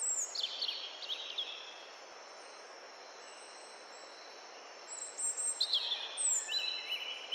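Small birds chirping in quick runs of short, high, falling notes, once near the start and again in the last couple of seconds, over a steady soft hiss of outdoor ambience.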